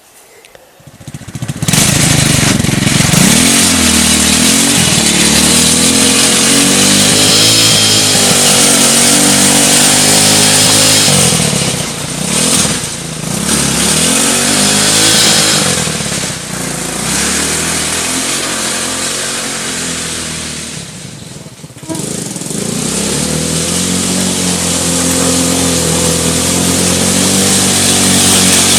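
Homemade quad bike's small engine running under load, revving up and down as it drives a rough forest track. It comes in loud about a second and a half in, and the revs fall away briefly near the three-quarter mark before picking up again.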